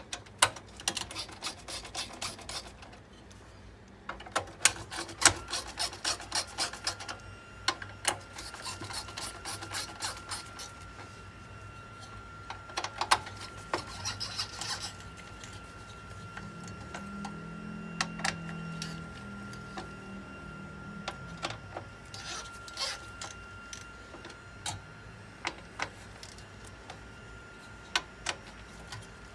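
Hand work on a desktop computer: repeated sharp clicks and rubbing, scraping strokes of tools and parts being handled, with a faint steady high tone through the middle.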